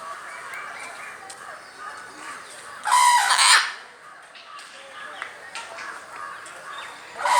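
A parrot gives one loud, harsh squawk about three seconds in, lasting under a second, over a low background of household noise.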